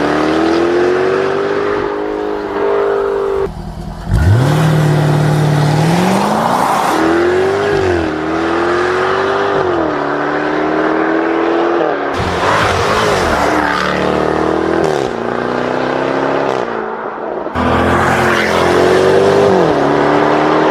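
Jaguar F-Type R's supercharged V8 accelerating hard. The engine note climbs through each gear and drops quickly at every upshift, with a short lift-off about four seconds in and another near the end before it pulls again.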